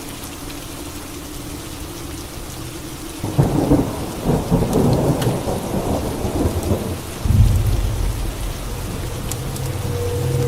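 Steady rain falling. About three seconds in, a sudden thunderclap breaks into crackling thunder. From about seven seconds, a deep rolling rumble of thunder follows and carries on.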